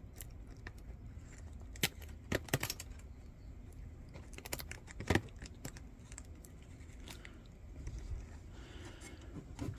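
Scattered light clicks and clinks of a steel folding candle lantern and its mica panel being handled, at irregular intervals, the loudest a little after five seconds in.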